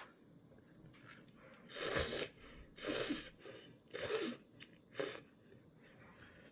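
Four short, breathy rushes of air about a second apart from a person eating hot ramen noodles.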